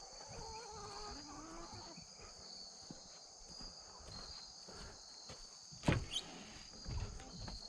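Evening insects, crickets among them, droning steadily in the background while a farm animal gives a wavering call in the first two seconds. Footsteps thud a few times near the end.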